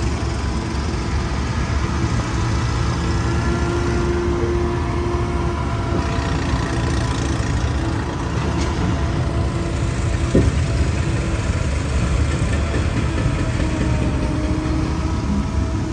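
A heavy vehicle engine running steadily at a constant pace, with one sharp knock about ten seconds in.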